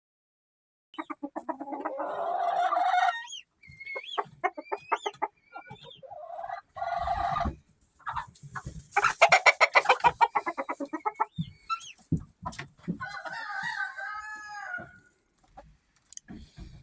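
Chickens clucking and cackling, with a rooster crowing, starting about a second in after silence.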